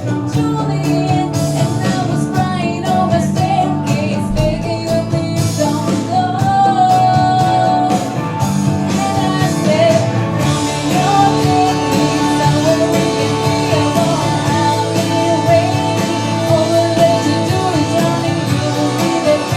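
A country-style song: a singing voice carries the melody over guitar accompaniment.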